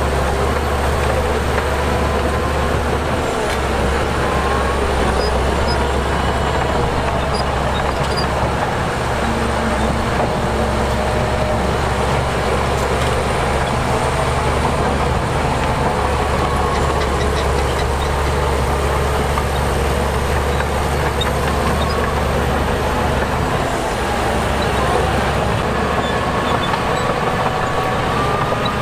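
Heavy diesel earthmoving machinery running steadily under load: a constant low engine rumble with a faint wavering whine on top.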